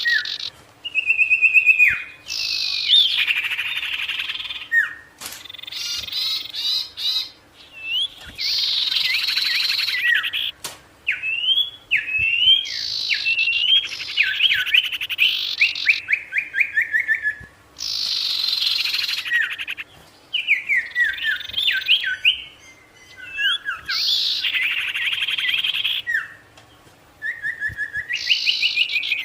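Sirtu in full song: a repeated sequence of dense, buzzy rattling trills alternating with fast runs of short falling whistled notes, phrase after phrase with brief pauses between.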